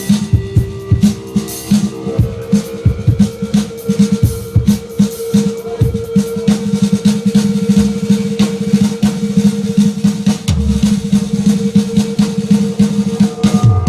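Drum kit played in a busy groove of kick, snare and cymbal hits, under held low notes from another instrument, with a second sustained note joining about two seconds in.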